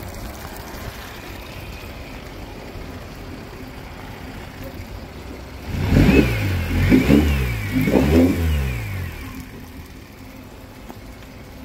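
Yamaha 9.9 hp four-stroke outboard motor, a two-cylinder, idling steadily, then revved about three times in quick succession before settling back to idle. It runs and responds cleanly, its carburettor freshly cleaned and tuned after bad fuel and water were flushed from the fuel system.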